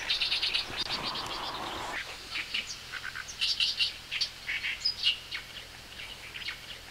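Small birds chirping, with quick runs of short, high calls repeating again and again.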